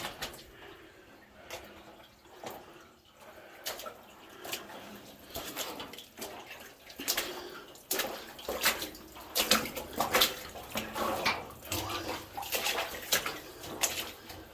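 Footsteps splashing and wading through shallow water in a low mine tunnel, irregular splashes that grow louder and more frequent from about halfway through.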